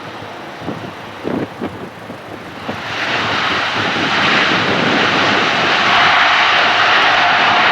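Jet airliner's engines passing close, a broad roar that swells about three seconds in and holds loud, with a steady whine coming through near the end. A few short thumps come before the roar builds.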